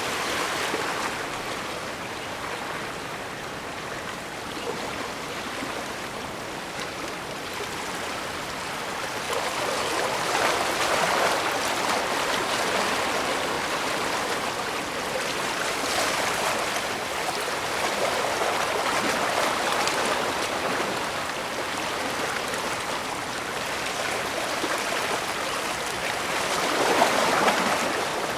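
Bay water washing and lapping: a steady rush of water that swells several times, most strongly near the end.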